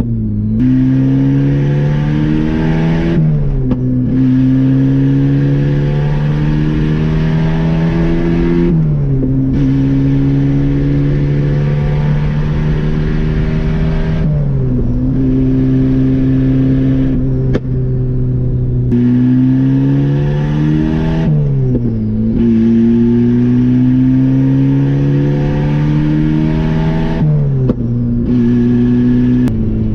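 Turbocharged Mazda Miata four-cylinder engine driving on the road. The engine note rises and falls in steps every few seconds as the throttle and revs change, with a hiss over it that drops out briefly each time the note falls.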